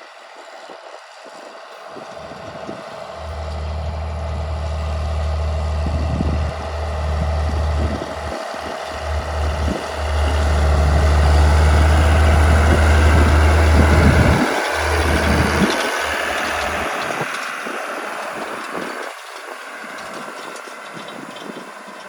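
Ford 8210's six-cylinder diesel engine working under load as the tractor pulls wide grass harrows past. It grows louder to a peak about two-thirds of the way through, then fades as it moves away.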